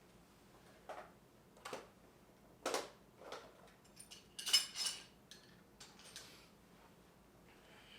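Metal hand tools clinking and clattering as they are handled and set down in a toolbox, in about seven separate knocks. The loudest is a ringing metal clatter about four and a half seconds in.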